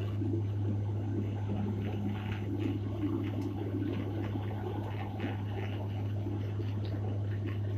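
Steady drone inside an airliner cabin during the landing approach: engine and airflow noise with a constant low hum, and faint small rattles.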